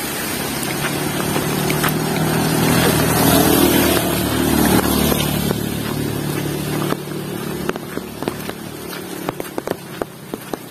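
A motor vehicle passes by in heavy rain, its engine growing louder to a peak about halfway through and fading away by about two-thirds in. Rain keeps hissing underneath, and near the end sharp drips of water stand out.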